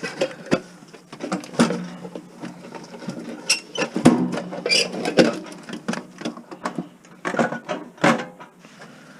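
Irregular clicks, knocks and rattles of plastic and metal parts as an Aiwa cassette deck is taken apart for scrap, over a faint steady low hum.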